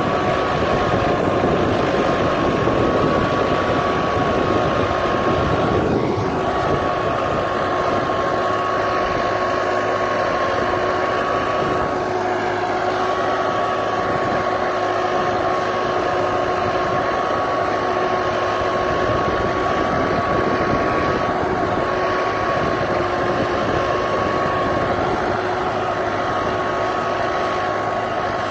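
Tractor engine running at a steady pitch while pulling a plough, a little louder for the first few seconds.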